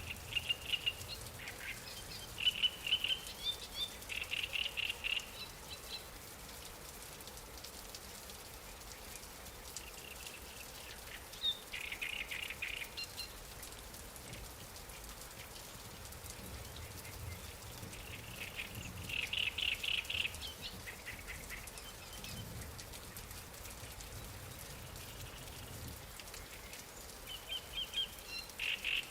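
A songbird singing short, rapid trilled phrases, one every seven or eight seconds, over a faint steady wash of light rain.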